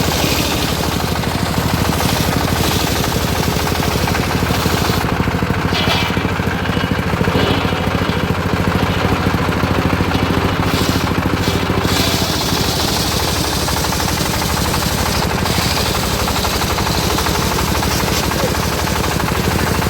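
Engine of a home-built circular sawmill running steadily with a fast, even pulse. A high hiss over it thins out from about five seconds in and comes back some seven seconds later.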